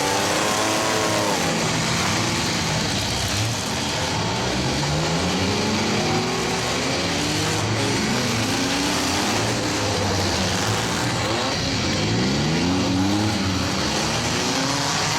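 Several demolition-derby cars, mini trucks and vans, with engines revving and accelerating as the heat restarts on the green flag. The engine pitch rises and falls several times over a constant noisy din.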